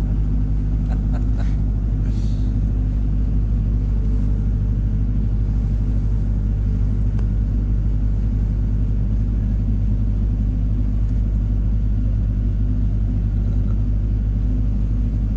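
Paddle boat's engine running steadily underway, a low even drone.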